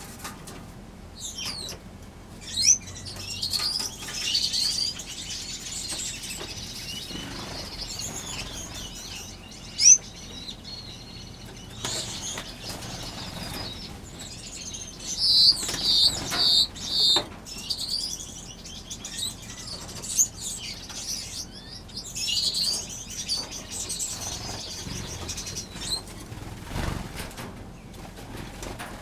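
A flock of small aviary finches chirping and calling over one another, with wings fluttering as birds fly about; the chatter swells into busier bursts several times, with a couple of sharp, louder chirps.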